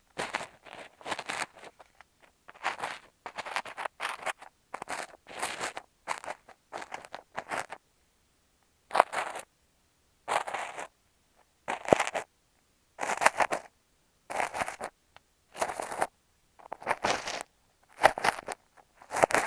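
Kinetic sand crunching and scraping against an earphone microphone in repeated strokes. The strokes are short and quick at first, then slower and longer, about one every second and a half, after a brief pause in the middle.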